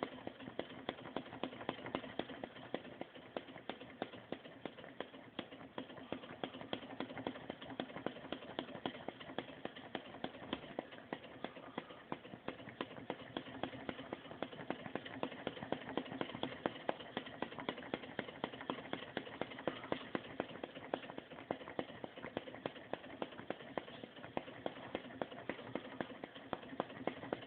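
Scratch-built flame licker (vacuum) engine running: a steady mechanical clatter with a regular beat of louder clicks, about two to three a second.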